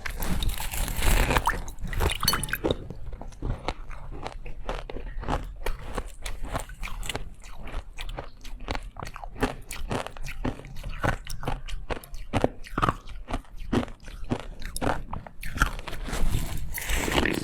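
Someone biting into and chewing ice close to the microphone: a steady run of crackling crunches, with two louder bursts of crunching as fresh bites are taken, one near the start and one near the end.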